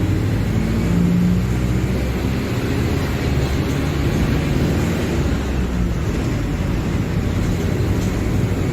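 Mercedes-Benz OF-1721 Bluetec 5 bus's diesel engine running with a steady low drone, its pitch shifting slightly now and then.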